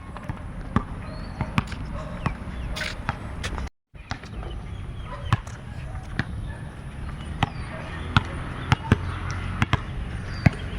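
Basketball bouncing on an outdoor court, sharp irregular thuds about one every half second to a second over steady background noise, cut off briefly twice.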